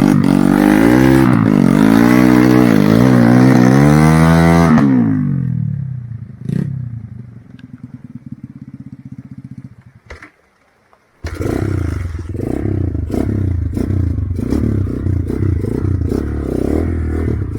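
Trail motorcycle engine revving hard, its pitch rising and falling repeatedly, then easing to a low steady idle about five seconds in. After a brief drop-out near eleven seconds it runs again under repeated knocks and clatter.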